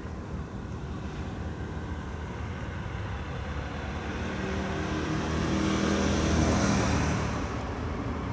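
A car passing close by: engine and tyre noise swell to a peak about six seconds in and fade quickly, over a steady low rumble.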